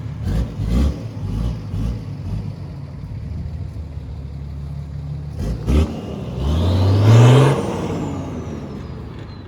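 4x4's engine running low and steady, with a few low thumps in the first couple of seconds, then revving up hard about six seconds in as it drives over a dirt hump, and easing off again.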